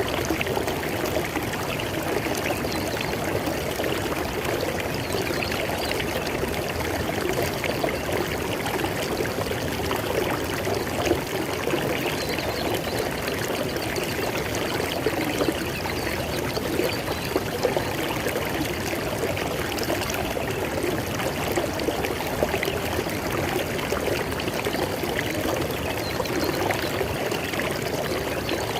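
River water flowing over stones in a steady, even rush with small splashes and gurgles.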